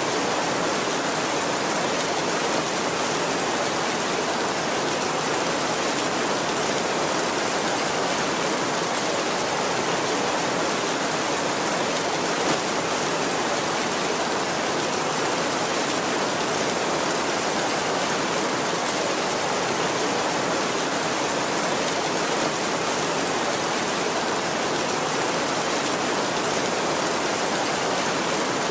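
Heavy rain falling steadily on a tin roof, a dense, even hiss of drops with no thunder rolls.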